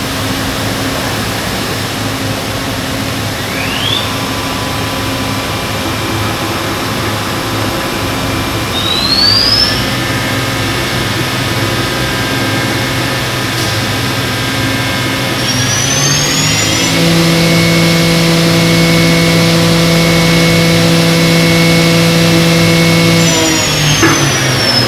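2005 Makino A71 horizontal machining center's CAT 50-taper spindle running up through its speeds: a rising whine about 4, 9 and 16 seconds in, each settling into a steady, higher-pitched hum, the last the loudest. Near the end it winds down with a long falling whine, over the machine's constant running hum.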